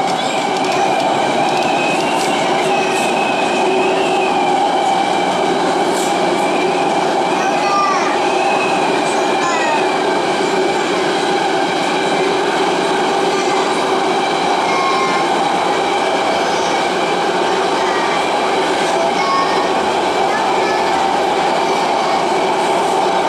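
MTR Tung Chung Line CAF A-Train heard from inside the car running at speed: a steady rumble with a fast, continuous beat from a flat spot on a wheel, which sounds like a hovering helicopter. A few brief wheel squeals come about eight to ten seconds in.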